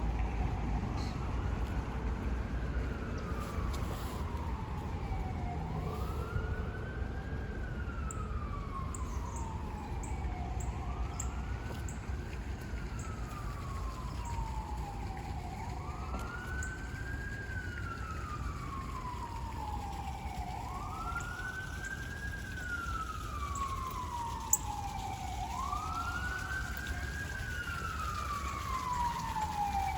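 Emergency vehicle siren wailing, each cycle rising quickly and falling slowly, about every five seconds, growing louder toward the end over a low traffic rumble. A single sharp click sounds late on.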